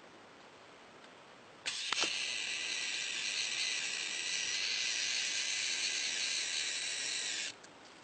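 An animal hissing: one long, loud hiss that starts suddenly about two seconds in and cuts off sharply about six seconds later.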